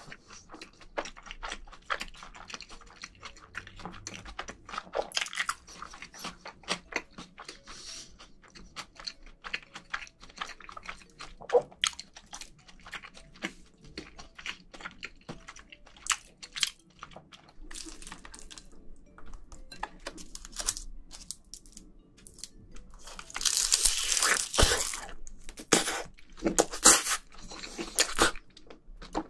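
Close-miked chewing of mouthfuls of rice mixed with spicy marinated crab: many small wet mouth clicks and smacks. A louder, denser stretch of eating sounds comes near the end.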